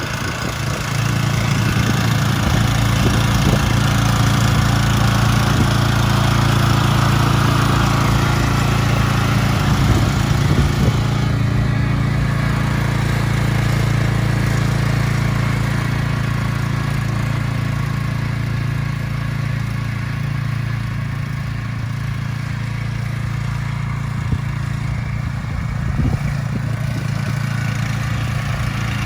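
Riding lawn mower engine running steadily as the mower is driven around.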